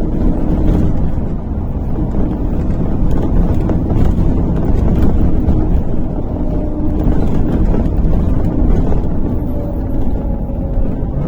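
Steady engine and road rumble inside a MAZ-103 city bus under way, with a few faint rattles.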